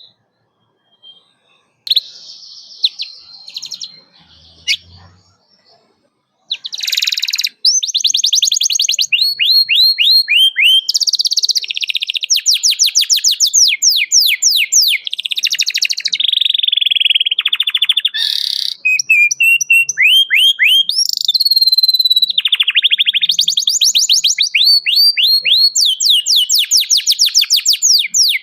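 Domestic canary singing: a few scattered chirps, then from about six seconds in a long unbroken song of fast trills, each phrase a rapid run of repeated sweeping notes before switching to the next.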